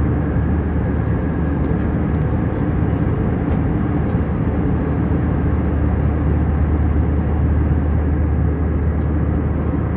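Steady cabin noise of an Airbus A320 in flight: a constant low drone of engines and airflow, with a strong low hum and no change in level.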